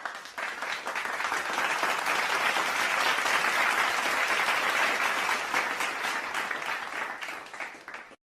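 Crowd applause: many people clapping at once, swelling up over the first second or two, holding steady, then fading out near the end.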